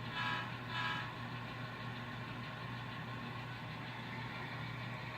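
A toy train sounding two short whistle toots about half a second apart near the start, over a steady low hum.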